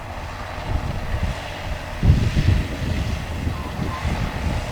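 Wind buffeting the microphone in gusts, the strongest about two seconds in, over the steady sound of a distant engine.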